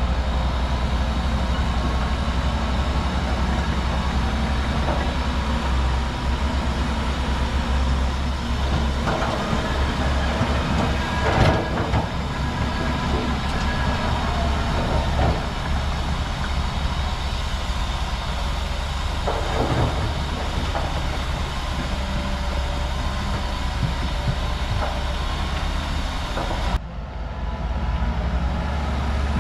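Bulldozer's diesel engine running steadily with its steel tracks clattering, and a few sharp metallic clanks.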